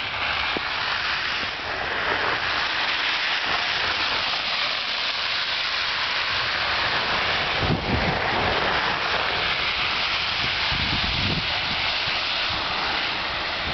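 Snowstorm outdoors: a steady hiss of wind and falling wet snow. Wind gusts rumble on the microphone about eight seconds in and again near eleven seconds.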